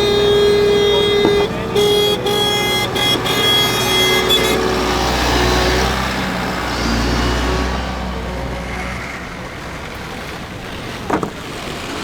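City street traffic in snow: a steady pitched tone that cuts off about four and a half seconds in, then a vehicle's engine rumble and road noise swelling and passing, with a single sharp knock near the end.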